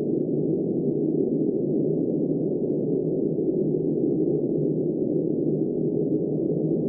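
Steady, muffled wind noise: an even, deep rush with no gusts and nothing high in it.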